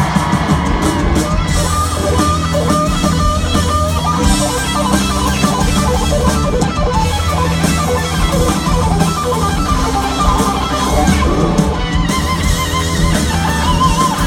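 Live rock band playing loudly, led by an electric guitar solo of fast runs and bent, wavering held notes over bass and drums.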